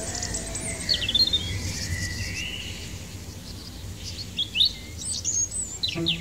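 Birds chirping: scattered short, quick downward-sweeping calls over a steady low background noise. Music begins right at the end.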